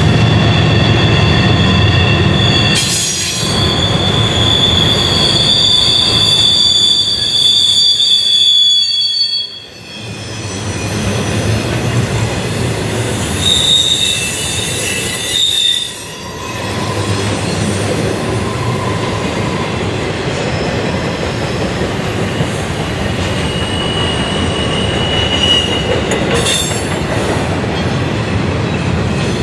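Double-stack intermodal freight cars rolling past with a steady rumble of wheels on rail, and high-pitched wheel squeal ringing over it now and then. The rumble dips briefly twice, about a third and a half of the way through.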